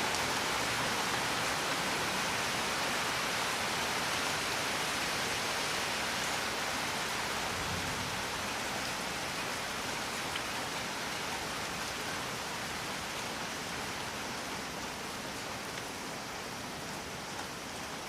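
Steady rain, an even hiss of drops with no single events standing out, growing slightly quieter toward the end.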